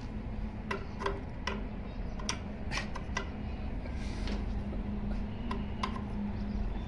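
Irregular light clicks and taps, about ten of them spread across a few seconds, from tools and parts of a 0.5 hp water pump being handled during reassembly, over a steady low hum.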